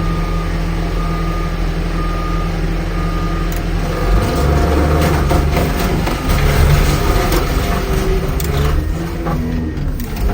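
A heavy machine's diesel engine runs steadily while its reversing alarm beeps about once a second. About four seconds in, the beeping stops and the engine works harder under load, with irregular cracks and creaking as the pickup's metal is crushed.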